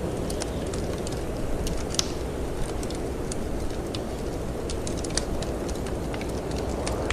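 Steady low rush of snowstorm wind, with the crackle of a wood fire: many small sharp pops and snaps scattered throughout.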